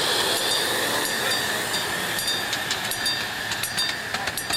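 A miniature steam train running on the track, with a steady hiss and a run of light, sharp clicks from the wheels and rails.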